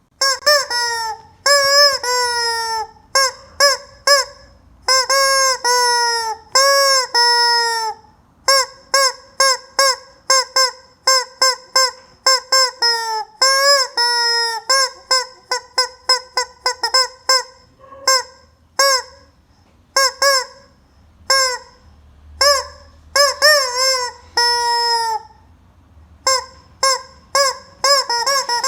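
Rubber squeaky chicken toy squeezed over and over, giving honking squawks: some short ones in quick runs, others about a second long that slide down in pitch at the end.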